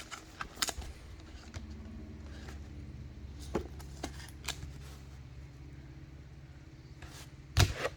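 Scattered light clicks and taps of trading cards being handled and set down, over a steady low hum, with one sharper knock near the end.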